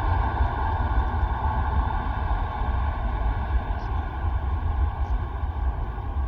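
Steady rumble and hiss of a distant aircraft's engines, with faint steady tones above it and a rough low rumble.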